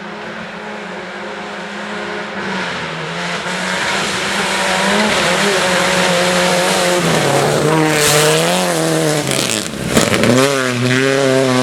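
Racing car engine coming closer and growing louder, its revs rising and falling with gear changes. About ten seconds in the sound dips sharply with a brief burst, then the engine revs hard close by, its pitch wavering quickly up and down.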